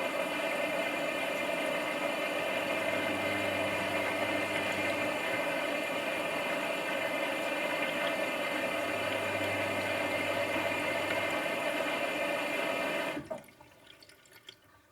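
Washing machine with water rushing through it, a steady hiss with an on-and-off low hum, that cuts off abruptly about 13 seconds in, leaving a few faint trickles.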